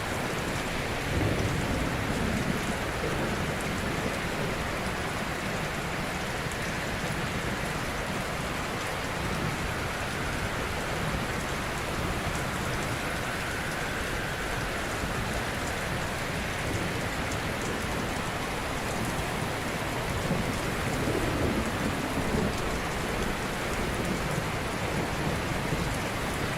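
Ocean waves washing onto a shore: a steady hiss of surf, with a deeper wave swelling in about two seconds in and again near the end.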